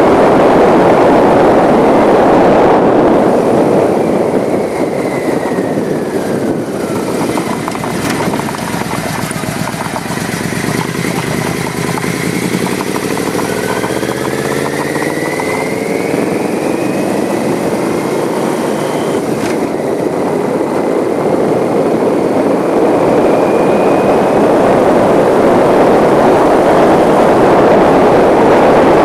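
Wind rushing over the microphone of a moving bike, easing off in the middle; there a motor engine's pitch rises and falls.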